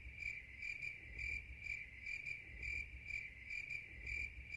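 Cricket chirping, a faint, even run of short chirps about three a second: the meme 'awkward silence' cricket sound effect.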